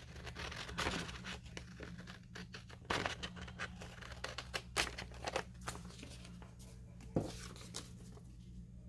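Paper being handled and shuffled: irregular rustles and crinkles with a few sharper taps, over a low steady hum.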